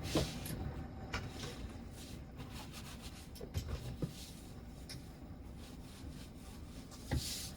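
Faint, scattered clicks and light knocks of household things being handled during cleaning, with soft rubbing.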